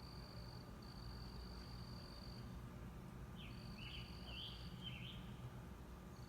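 Faint outdoor ambience: a steady high-pitched insect trill that breaks off and starts again, with a bird giving a quick run of chirps about halfway through, over a low steady hum.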